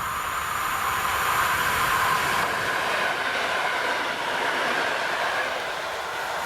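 A train passing close by, a steady rush of wheel-on-rail running noise that swells slightly about two seconds in.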